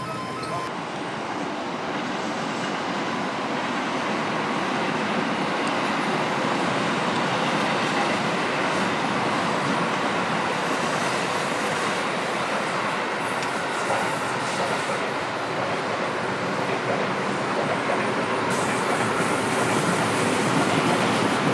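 Seibu Railway electric train running on the rails, a steady rolling noise of wheels on track that grows a little louder near the end.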